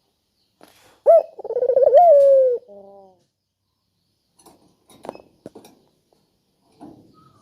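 A puter dove gives one loud, rolling coo about a second in, lasting about a second and a half with a couple of upward swoops in pitch, then trails off. A few faint taps follow later.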